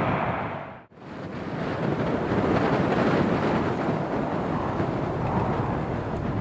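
Strong wind blowing across the microphone: a steady rushing noise. It fades out briefly about a second in and then comes back.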